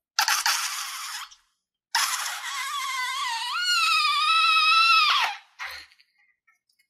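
Air escaping from a stretched balloon neck: a short hiss, then a longer rush of air that turns into a wavering squeal and drops in pitch as it cuts off.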